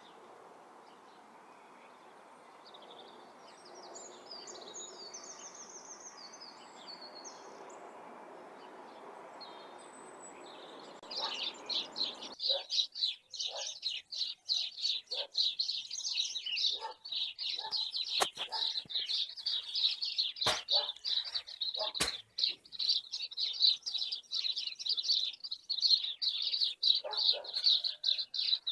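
Small birds chirping. Low background noise with a few faint high chirps gives way, about eleven seconds in, to dense, rapid, continuous high-pitched chirping with a few sharp clicks.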